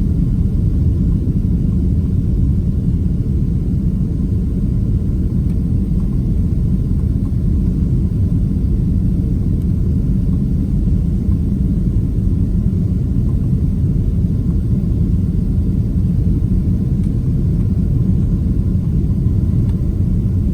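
Steady low rumble of engine and airflow noise heard inside the cabin of a Boeing 767-300 airliner in flight.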